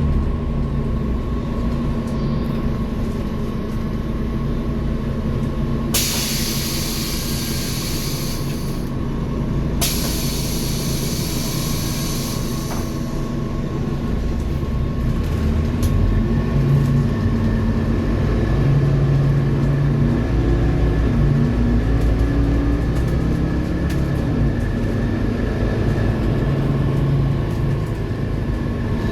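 Scania K230UB city bus running: a steady low engine drone with a thin whine over it, and two hisses of about three seconds each around six and ten seconds in. From about halfway on, the engine note rises and falls as the bus works through its speeds.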